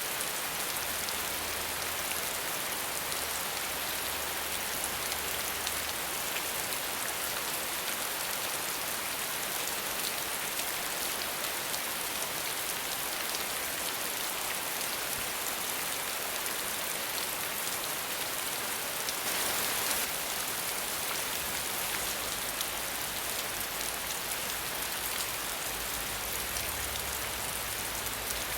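Steady rain falling without thunder: an even hiss of many drops with fine individual drop ticks, swelling briefly about two-thirds of the way through.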